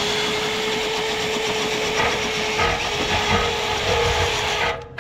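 A power cleaning tool running in a lint-clogged dryer vent duct: a steady motor hum under loud scraping and rushing noise. It starts suddenly and cuts off just before the end.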